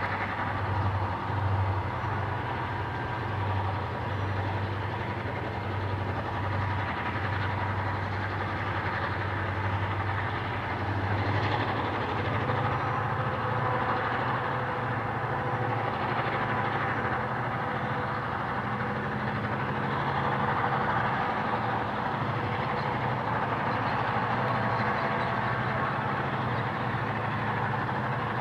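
EMD diesel-electric locomotives working under load, a steady deep engine drone. A higher engine note joins about twelve seconds in.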